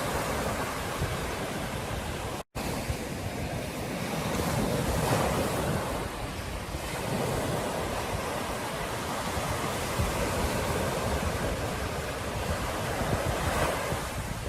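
Ocean surf breaking and washing up on a beach in swells, with wind buffeting the microphone. The sound drops out completely for a split second about two and a half seconds in.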